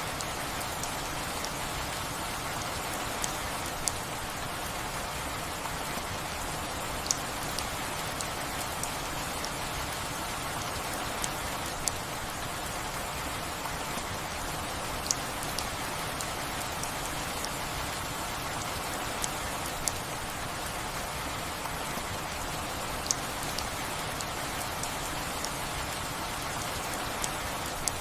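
Steady rain falling, with a sharp single drop or drip striking now and then, every second or few.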